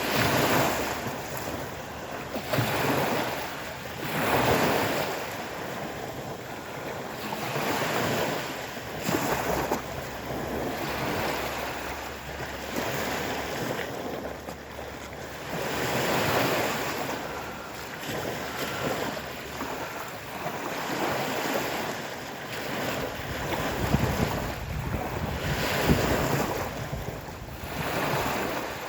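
Stormy sea: waves breaking and washing in surges every few seconds, with wind buffeting the microphone.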